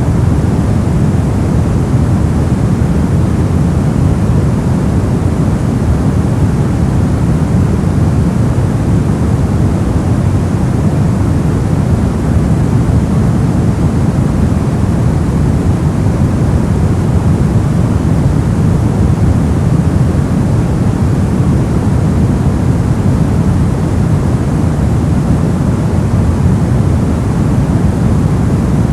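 Steady, unchanging sleep noise of the white-noise kind, deep and rumbling, with most of its weight low and only a soft hiss above.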